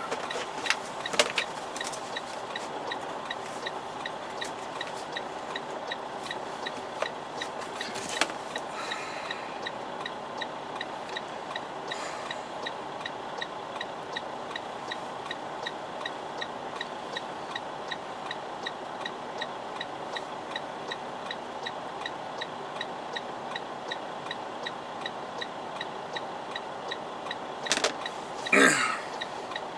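Steady rapid ticking over a constant hum inside a truck cab, with a few louder clicks. A short, loud sound that rises and falls in pitch comes near the end.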